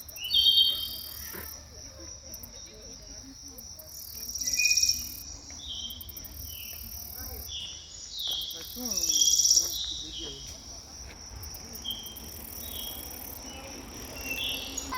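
A chorus of insects stridulating: a steady high-pitched buzz, with short high chirps and louder swelling bouts about half a second, four and a half and nine seconds in.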